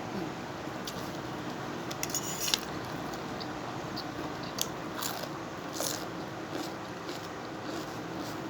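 A person chewing and crunching food close to the microphone, with several crisp crunches, the sharpest about two and a half seconds in, over a steady background hiss.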